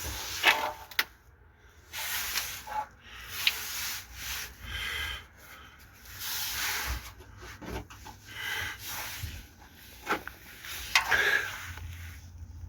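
Irregular rubbing and scraping sounds in short strokes, with a few sharp clicks between them.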